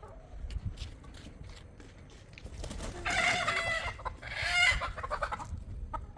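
Chicken giving two loud, drawn-out calls, about three and four and a half seconds in, over scattered faint clicks.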